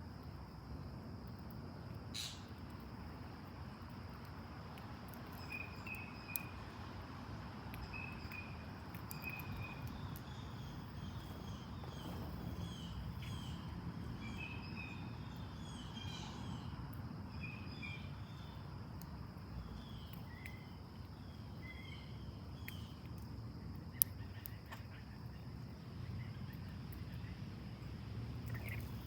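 Backyard songbirds chirping and calling in many short, quick notes, busiest through the middle, over a steady high insect drone and low outdoor background noise.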